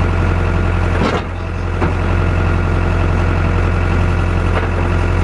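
Engine idling steadily, with a short knock about a second in and a couple of faint clicks later.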